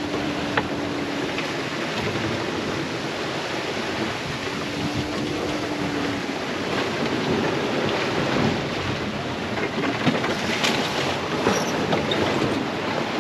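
Strong wind and waves rushing around a sailboat at sea, with wind buffeting the microphone. A steady hum comes and goes twice, and there are a few sharp ticks near the end.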